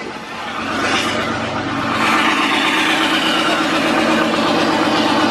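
Large diesel truck engine running steadily, growing louder over the first couple of seconds and then holding level.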